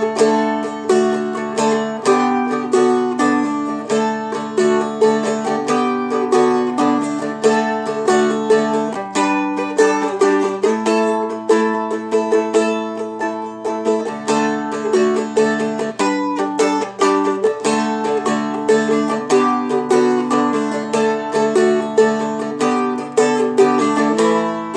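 Seagull Merlin fretted dulcimer strummed briskly with a pick, moving through D, G and A chords over a steady drone, with quick, even strokes throughout.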